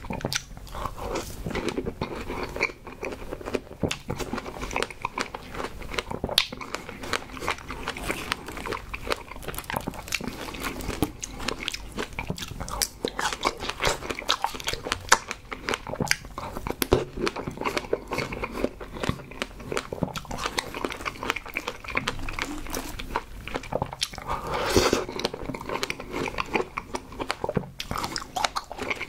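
Close-miked chewing and biting of fresh strawberries with whipped cream: a dense run of wet, squishy clicks and mouth sounds, with one longer, louder noise about 25 seconds in.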